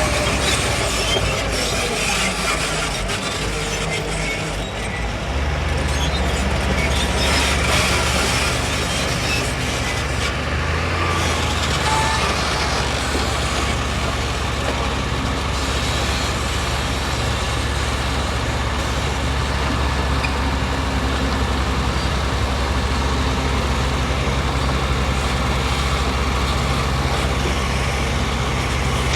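Heavy diesel engine of construction machinery running steadily with a deep hum, getting louder about five seconds in.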